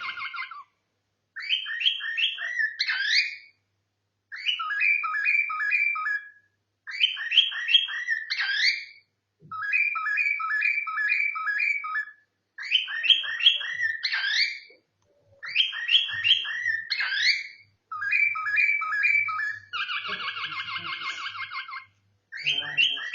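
Pet cockatiel whistling the same short song phrase over and over: about eight bursts of quick rising and falling whistle notes, each a couple of seconds long with short pauses between, then a buzzier steady trill near the end.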